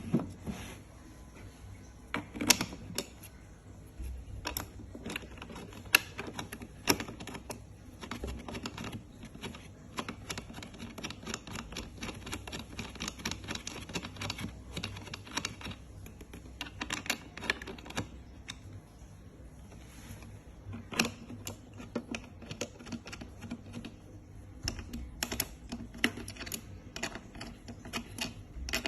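Irregular clicks, taps and knocks of dog bowl stand parts being handled and fitted together during assembly, with a few louder knocks.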